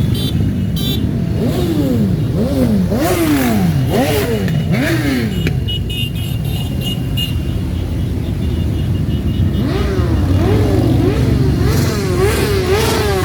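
Motorcycles passing in a parade under a steady engine rumble, with engines revved in a series of quick rises and falls in the first half. A rapidly wavering tone joins in for the last few seconds.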